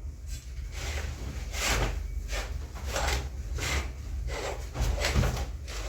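Repeated short rubbing and scraping strokes, about one every half second to second, as curtains are handled and hung, with a steady low hum underneath.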